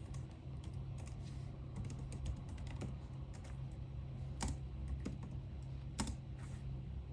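Typing on a computer keyboard: irregular keystroke clicks, with a couple of louder taps about four and six seconds in, over a steady low hum.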